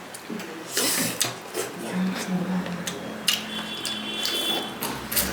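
Eating at a table: irregular clicks and short clatters of dishes and utensils as food is handled, with a low voice murmuring underneath.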